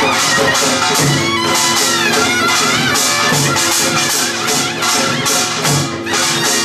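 Korean traditional folk-music ensemble playing dance accompaniment in the Deotbaegi rhythm. A wind instrument carries a wavering melody over dense metallic percussion clatter, with a deep drum stroke about every two seconds.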